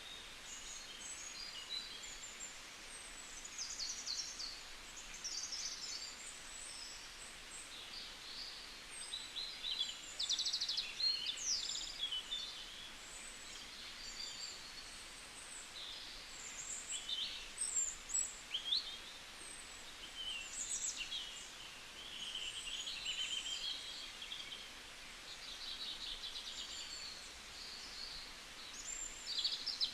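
Several small birds chirping and trilling, many short high-pitched calls overlapping one another, louder in a few bursts.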